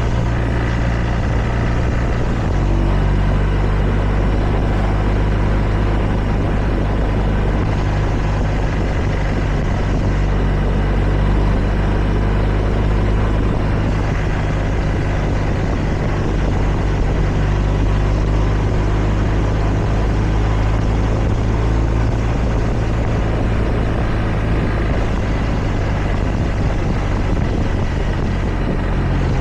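Motorcycle engine running steadily under way, with a broad rushing noise over it; the engine note shifts slightly about two and a half seconds in.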